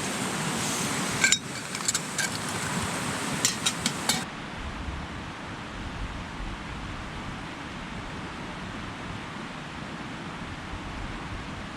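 Camp gear clinking a few times, in light metallic knocks, over a steady rushing noise. About four seconds in the sound cuts abruptly to a duller, steady rushing with no clinks.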